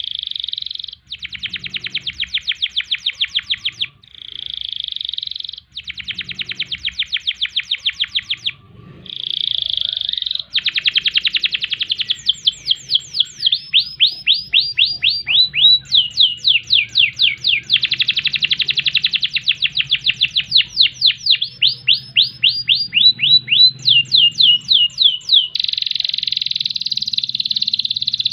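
Canary singing a long, unbroken song. Sustained rolling buzzes alternate with rapid trills of quickly repeated notes, and some of those notes sweep down in pitch.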